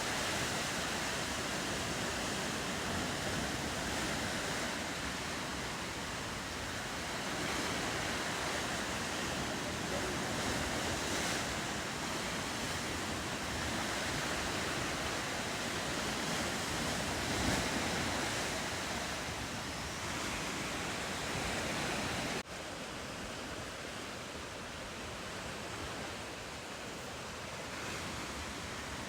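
Ocean surf washing steadily, with wind on the microphone; the sound drops abruptly to a quieter wash about three quarters of the way through.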